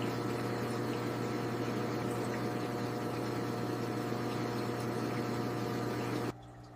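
Steady aquarium water noise with a low motor hum, as from a running aquarium filter or pump. It drops suddenly near the end, leaving a quieter hum.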